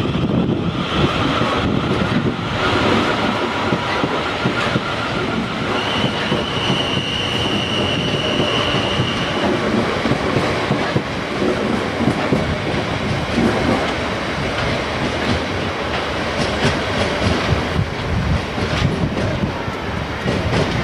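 South Western Railway Class 450 Desiro electric multiple units running past over the station approach tracks, wheels rumbling and clacking on the rails. About six seconds in, a high, steady squeal is heard for a few seconds.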